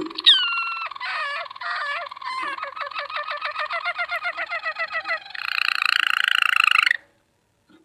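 Canary singing: a sharp falling whistle, then rapid repeated trilled notes at about five or six a second, ending in a fast buzzy roll that cuts off abruptly about a second before the end.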